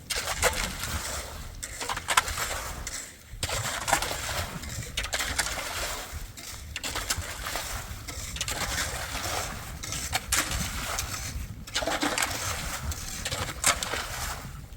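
Water splashing and sloshing in irregular surges with short breaks, with sharp little clinks and splatters among them.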